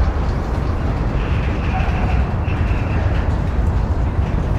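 Train running past close by: a steady, loud low rumble, with a thin high-pitched squeal for a couple of seconds starting about a second in.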